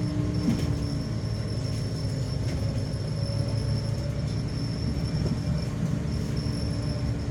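Steady rumble of a city bus in motion, heard from inside the passenger cabin, with a faint high whine over it. A low hum stops about half a second in.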